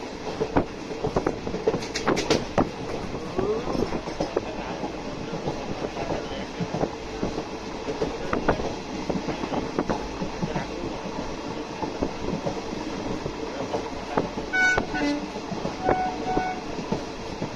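An Indian Railways train heard from inside a moving coach: a steady running rumble, with the wheels clicking irregularly over the rails throughout. A few short high tones sound near the end.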